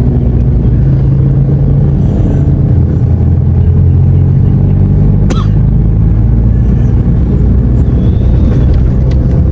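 Car engine running steadily under way, a low drone heard from inside the cabin, with a single sharp click about five seconds in.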